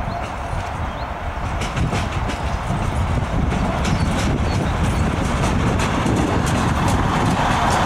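Yellow diesel work railcar approaching and passing close by. A low rumble comes with a run of wheel clicks over rail joints from about a second and a half in, getting louder as it nears.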